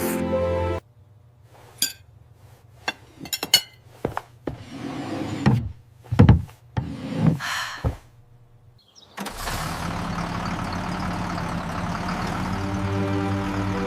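Scattered clicks and knocks, then several louder thuds and rustles; after a short gap, a steady noisy rumble begins, which soft music joins near the end.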